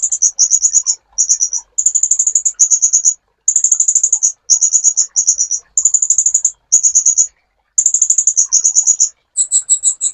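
Kolibri ninja sunbird singing: very high-pitched, fast buzzy trills in short bursts of about half a second to a second, broken by brief pauses. Near the end it switches to a quick run of separate, sharper notes.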